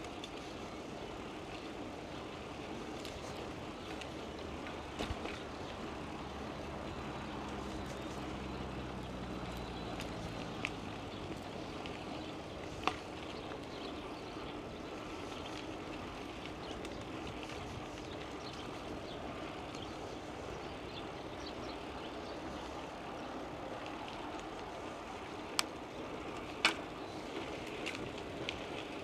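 Steady wind and rolling noise of a bicycle ride, with a motor vehicle's low engine hum passing between about 5 and 10 seconds in. A few sharp clicks or knocks break through, the loudest two about three quarters of the way in.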